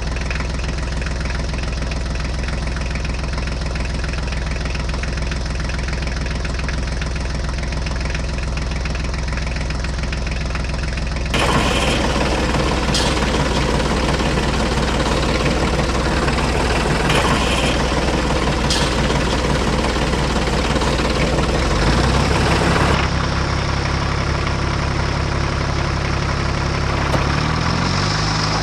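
A mini DIY tractor running steadily with an engine-like idle. The sound changes abruptly about 11 seconds in, growing louder and harsher, and changes again about 23 seconds in.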